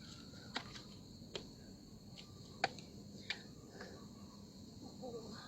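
Steady high-pitched insect chirring, crickets or similar, with four or five sharp clicks scattered through it.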